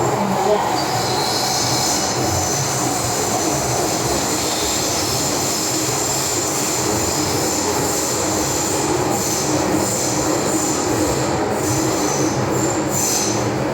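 MTR M-train metro car running, heard from inside the car: a steady rumble of wheels on rail with high-pitched wheel squeal setting in about a second in and growing stronger near the end.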